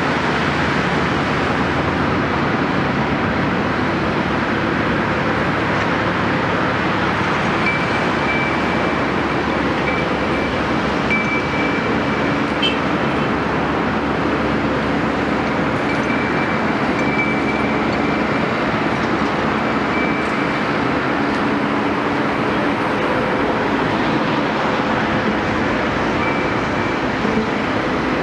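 Hydraulic excavator's diesel engine running steadily under work, with a thin high whine that comes and goes from about eight seconds in.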